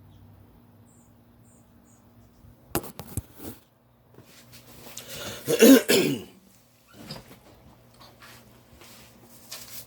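A person clears their throat and coughs about five and a half seconds in, after a few sharp clicks near three seconds.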